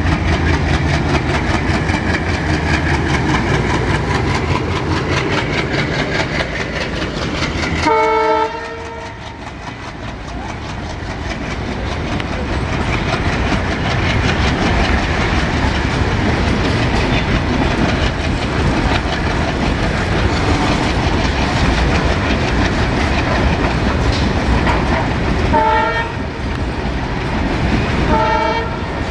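Diesel-hauled train running past, its wheels clattering rhythmically over the rail joints, with a diesel engine heard in the first few seconds. Three short horn blasts sound: one about eight seconds in and two near the end.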